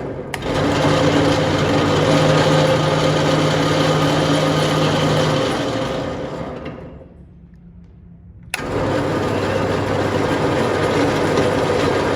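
A motor-driven machine running steadily. It dies away about seven seconds in and cuts back in suddenly a second and a half later.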